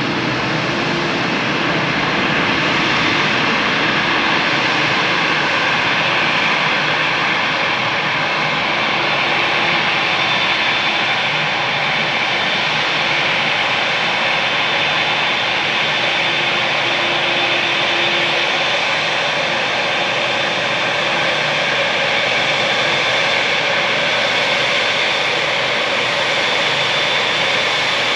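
Airliner jet engines running loudly and steadily, with a high whine that grows stronger about a third of the way in.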